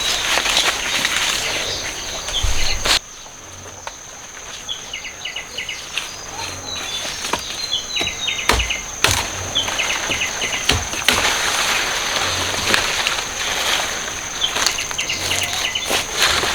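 Outdoor rural ambience: a steady high-pitched insect drone with birds chirping in short series, over rustling of leaves and stalks with a few sharp knocks.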